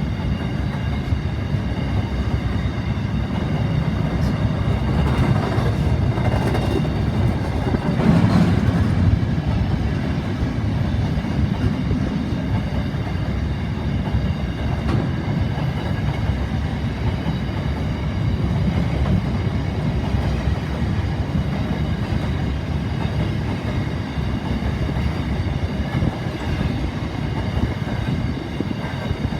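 Freight train of double-stacked container wagons rolling past, with a steady rumble of wheels on the rails and a brief louder stretch about eight seconds in.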